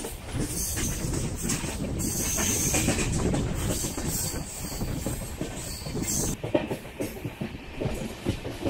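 Passenger train running along the track, a steady low rumble with irregular knocks of the wheels over rail joints. A high hiss drops away about six seconds in.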